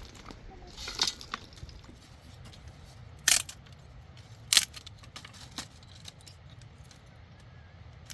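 Stones being handled and set: a scrape about a second in, then two sharp knocks of stone on stone a little over a second apart, with lighter clicks between.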